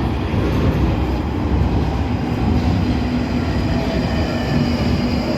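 London Underground Northern line train running through the tunnel, a steady loud rumble with a faint sustained whine.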